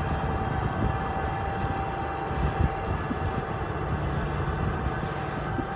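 Heavy diesel earthmoving machinery running steadily, a low engine rumble with a faint thin whine above it for the first few seconds.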